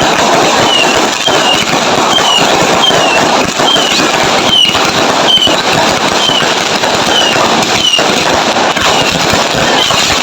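Fireworks going off continuously: dense crackling with a few louder bangs, and a short high falling whistle repeating about every half second.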